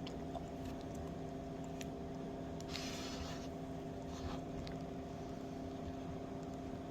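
Steady mechanical hum at several pitches, with a brief hissing rustle about three seconds in and a few faint clicks.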